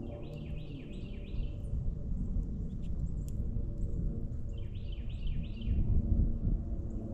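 A songbird singing two phrases of four or five quick down-slurred whistled notes, one at the start and one about four and a half seconds in, over a steady low outdoor rumble.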